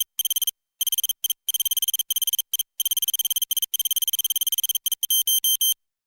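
Electronic beeping tones, high-pitched and chopped rapidly on and off in a stuttering pattern, ending with a quick run of about six short beeps and then cutting off suddenly.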